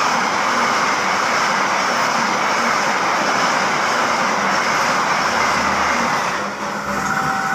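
Passenger train passing at speed through a level crossing: a loud, steady rush of wheels on rail and carriages. It eases slightly near the end, when a steady high tone comes in.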